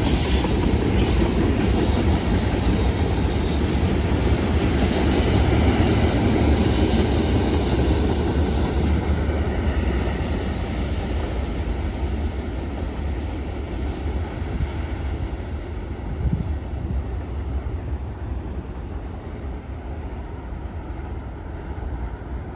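A train running past on the tracks, wheels rumbling, with a thin high wheel squeal in the first few seconds; the sound slowly fades as the train moves away.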